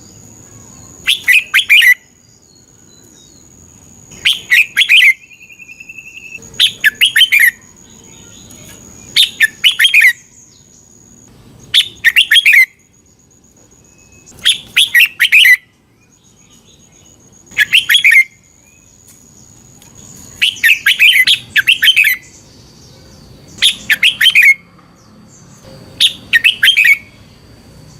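Red-whiskered bulbul singing: short, loud, bubbling phrases repeated about every two to three seconds, with a faint steady high-pitched whine behind them.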